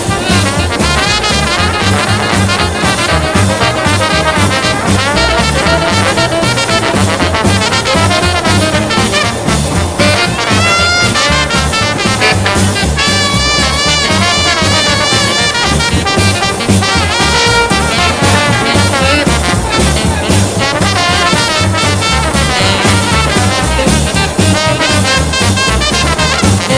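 Instrumental swing jazz with brass: trumpet and trombone lines over a steady rhythm section.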